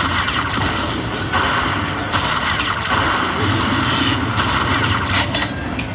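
Lightning Link slot machine game sounds and music, coming in blocks that start and stop abruptly, over steady casino floor noise.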